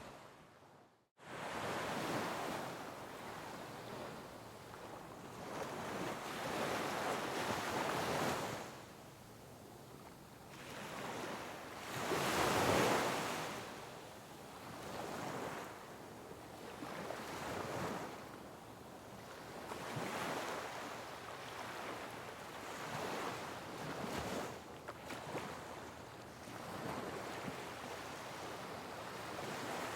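Sea waves breaking on a rocky shore, surging and draining back every few seconds, with the largest crash about halfway through. A brief gap of near silence comes about a second in.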